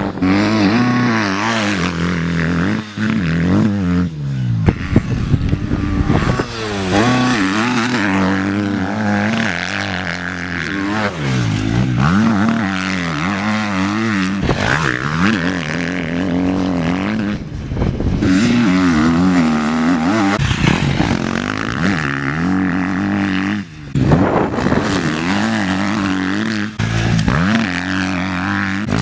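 Husqvarna FC 250 four-stroke single-cylinder motocross bike engine revving hard and rising and falling in pitch again and again through the gears, with brief drops in revs between bursts of throttle.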